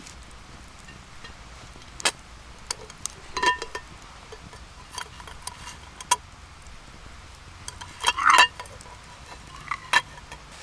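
Metal cookware and utensils knocking and clinking, with a brief ringing clink about three and a half seconds in and a louder clatter about eight seconds in, between scattered lighter taps.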